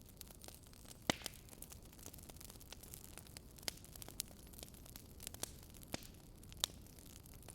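Wood fire crackling: sharp irregular pops and snaps, roughly one to two a second, over a low steady hiss and rumble.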